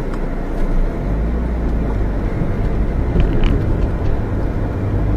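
Alfa Romeo 156 engine and road noise heard from inside the cabin as the car pulls away from a junction, the low engine drone growing stronger about a second in. A few light clicks come about three seconds in.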